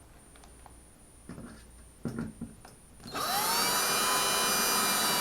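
A few light clicks and knocks of handling, then about three seconds in a power drill spins up quickly and runs at a steady high whine, driving a screw through the shelf track into its drywall anchor.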